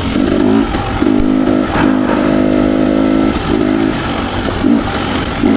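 Dirt bike engine running on the trail, revs rising and falling with the throttle and held steady for about two seconds in the middle.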